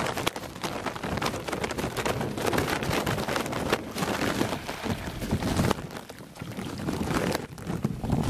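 Rain and wind, with wind buffeting the microphone and a dense, irregular patter of small drops and splashes.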